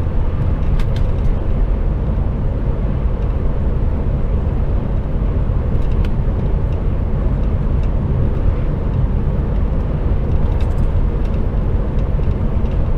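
Steady engine and road noise heard inside the cab of an HGV lorry on the move, with a few faint ticks.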